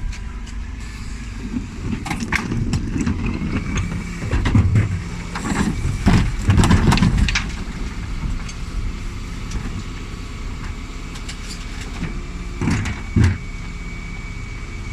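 Dennis Elite 6 bin lorry's diesel engine running steadily, with a run of heavy clunks and knocks about four to seven seconds in and two more near the end.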